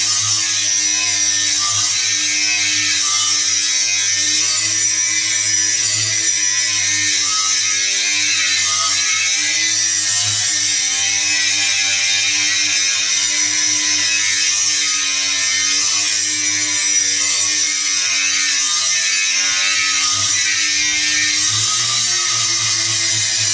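Angle grinder grinding steel: a steady loud motor whine under a harsh high hiss of the disc on metal, its pitch wavering slightly as the load on the disc changes.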